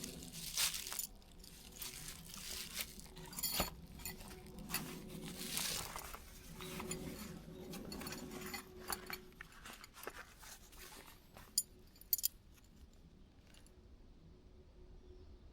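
Camping gear being handled while a tarp is set up: irregular light clinks of small metal parts and rustling, with two sharp clicks near the end.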